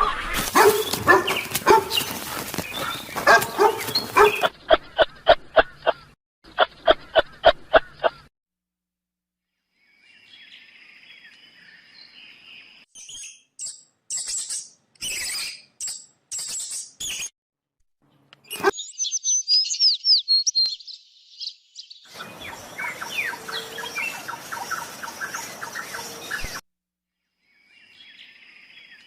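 A string of separate animal-sound clips with abrupt cuts and short silent gaps between them: the later part holds high bird chirps and twittering with quick gliding notes. It opens with a loud, dense stretch and two runs of rapid repeated calls.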